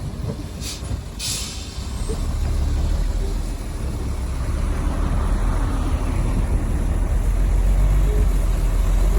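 Heavy diesel engine running with a deep rumble that grows louder towards the end. Two short hisses of released air come about a second in.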